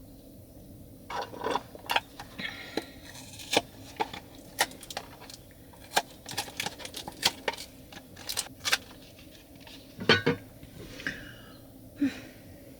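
Dishes and utensils clinking and knocking in an irregular run of sharp taps and clatters, some ringing briefly, starting about a second in.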